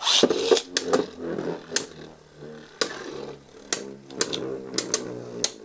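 Beyblade Burst tops spinning and clashing in a plastic stadium: a sudden rasp at the start, then a whirring hum that drifts lower, broken by many sharp clicking hits.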